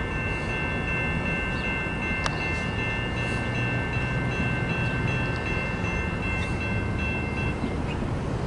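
Freight train's cars rolling past with a steady low rumble, joined by several steady high ringing tones that stop shortly before the end.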